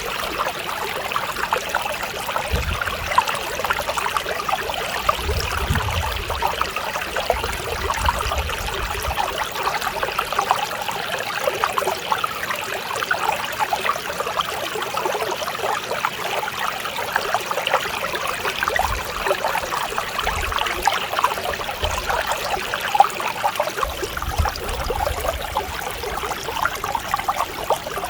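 Mountain stream flowing over rocks: a steady, even rush of water with constant fine burbling and splashing.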